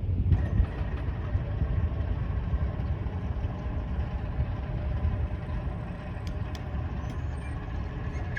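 Empty grain hopper cars of a freight train rolling past on the rails: a steady low rumble with faint squealing tones and a few sharp clicks in the second half.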